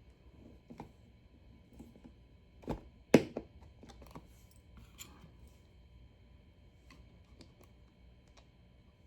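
Scattered small clicks and taps with two sharper knocks about three seconds in, the second the loudest: parts of a knife sharpener being handled and fitted back together.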